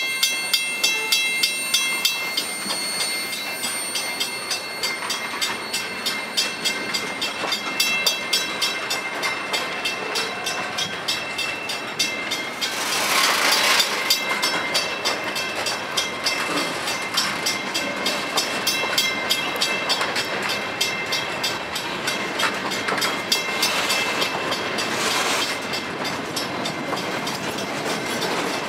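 Freight cars rolling past at a grade crossing: a steady rumble with the rhythmic clatter of wheels over rail joints. A crossing bell rings in fast even strokes, clearest in the first few seconds. A brief louder rushing noise comes about halfway through and again near the end.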